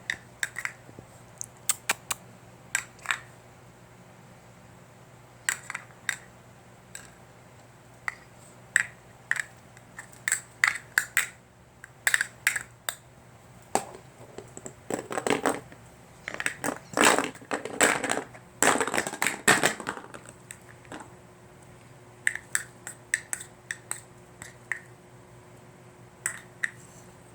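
Irregular clicking and clattering of small hard objects, in scattered taps with a busier flurry of knocks in the middle.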